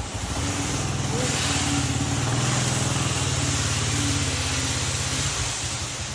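A small engine running steadily with a rapid firing pulse, dropping away in the last second.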